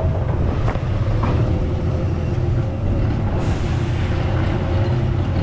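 Heavy diesel truck engine running steadily, a low drone with a faint steady whine above it.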